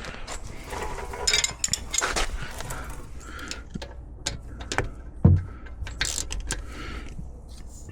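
Metal hand tools clinking and rattling against each other and the brake caliper, in scattered sharp clicks, with one louder dull thump about five seconds in.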